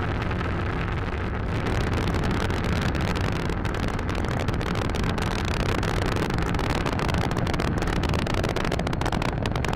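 Falcon 9 rocket's nine first-stage Merlin engines in powered ascent: a steady deep rumble with a dense crackle over it.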